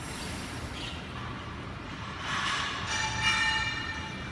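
A rushing swell of noise about two seconds in, then a steady horn-like tone held for about a second near the end, over a constant low outdoor rumble.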